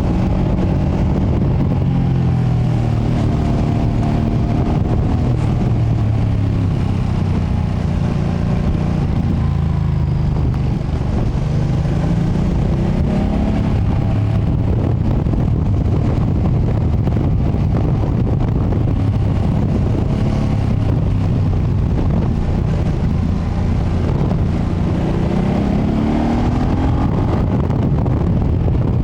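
2025 Ducati Panigale V2S's V-twin engine running on its stock exhaust while riding. The revs sink over the first ten seconds or so, climb again, hold steady for a while, then rise once more near the end.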